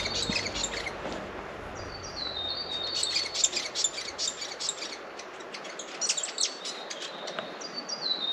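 A songbird singing the same short, high phrase several times: a few notes stepping down, then a fast rattling run.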